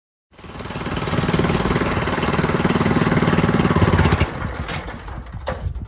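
A small engine running with a fast, even firing pulse, starting suddenly and falling away about four seconds in.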